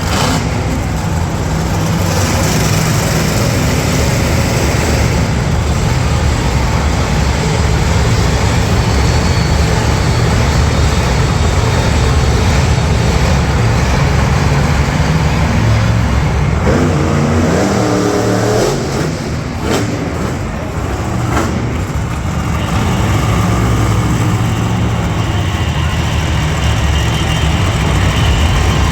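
Monster truck engine running loud and steady, its heavy low rumble filling an arena, easing off briefly about two-thirds of the way through before picking up again.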